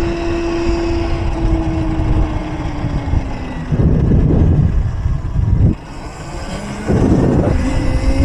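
Electric mini bike's motor whining as it rides, its pitch slowly falling as the bike slows and rising again near the end. Low rushing noise of wind on the microphone runs underneath and surges loudly twice in the second half.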